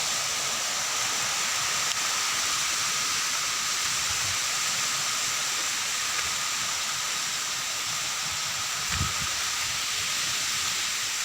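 Steady rushing of falling water, an even hiss with no breaks, and a brief low bump about nine seconds in.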